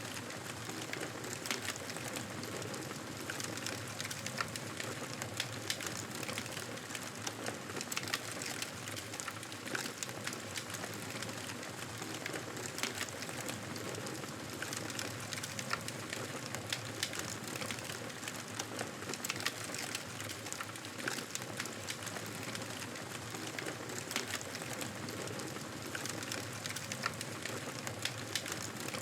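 Wood fire burning: a steady hiss with many small crackles and pops.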